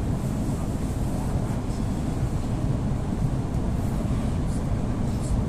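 EP2D electric multiple unit running, heard from inside the carriage: a steady low rumble of the running gear, with a few faint high ticks near the end.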